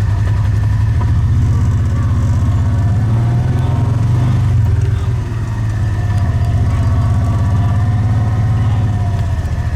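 A motor vehicle's engine running steadily, a low pulsing drone, dipping briefly about halfway through.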